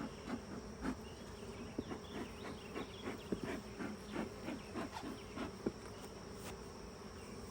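Honeybees buzzing around an open hive: a steady hum of the colony with many single bees droning past close by, each one's pitch sliding as it flies through.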